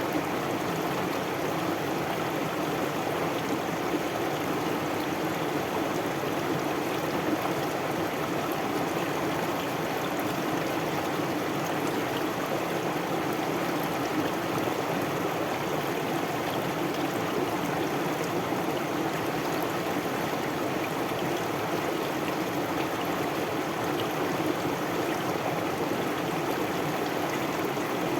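A stream of water flowing steadily over rocks, a constant rushing and babbling.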